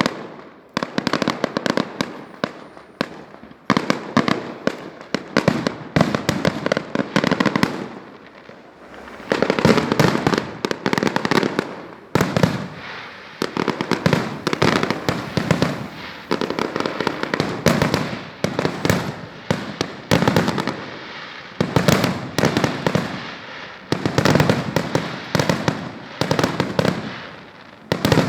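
Fireworks display: rapid volleys of aerial shell bangs and crackling, coming in waves every couple of seconds with brief lulls between.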